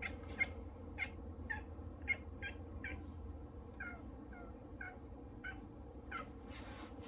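A house cat making a quick run of short, clipped calls, about two or three a second, each dipping in pitch.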